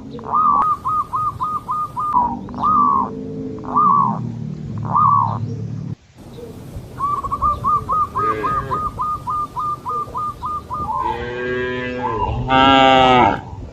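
Strings of short, quickly repeated high calls, several a second. Near the end comes a loud, long moo from cattle.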